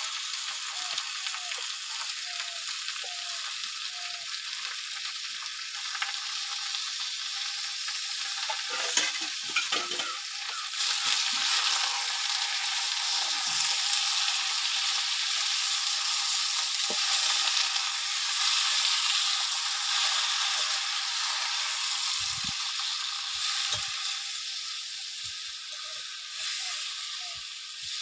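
Spinach and red lentils frying in hot oil in a steel wok, sizzling steadily while a metal spatula stirs them. The sizzle gets louder about eleven seconds in, and a few knocks come just before.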